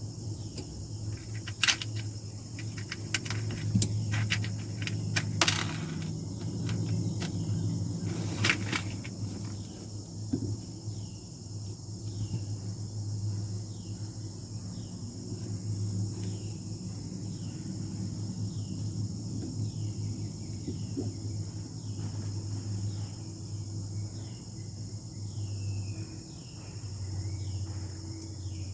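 Insects buzzing steadily over a low hum, with a few clicks and knocks in the first nine seconds. In the second half a short falling chirp repeats about once a second.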